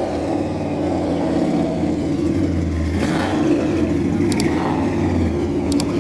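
A car engine running steadily, swelling a little twice, with a couple of light clicks near the end.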